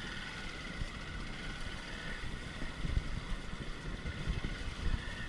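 Motorcycle engine running while riding an off-road trail, with wind buffeting the microphone in irregular low gusts.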